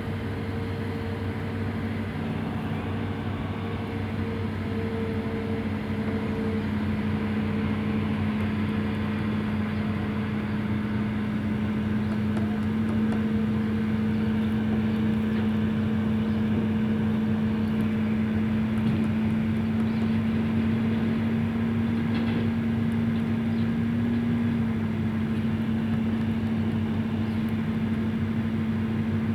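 Excavator diesel engine running steadily with a constant low hum, growing a little louder about five seconds in.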